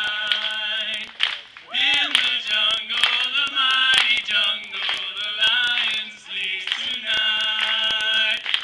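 Several voices singing an upbeat tune without instruments, with sharp claps or clicks running through it.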